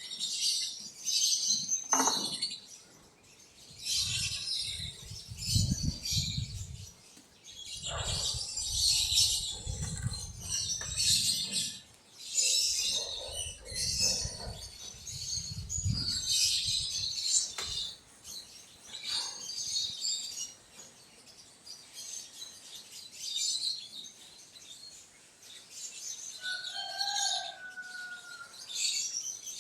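Many small birds chirping in dense, repeated bouts, with intermittent low rumbles under the chirps in the first half and a short pitched call near the end.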